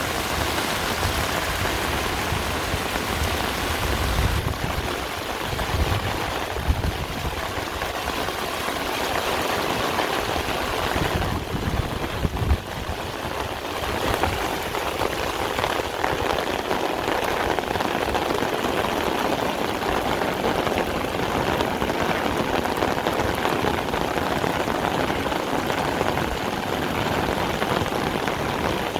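Heavy rain falling steadily, a dense even hiss of rain on surfaces, with some low rumbles now and then in the first half.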